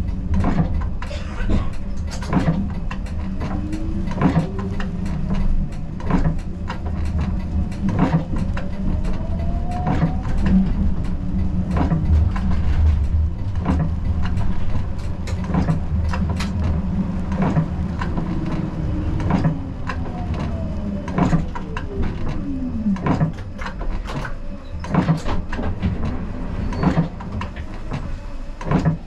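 Siemens Combino low-floor tram running on street track, heard from the driver's cab: a steady rumble with frequent clicks and knocks from the wheels over rail joints and points. The electric traction motors whine rising in pitch as it accelerates about a third of the way in, and falling as it slows later.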